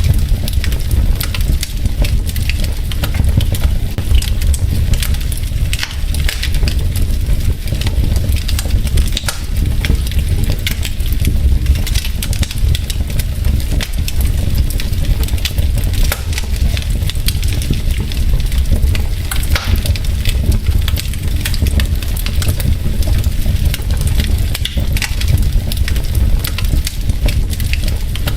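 Wood fire burning in a fireplace: logs crackling and popping in many short sharp snaps over a steady low rumble of the flames.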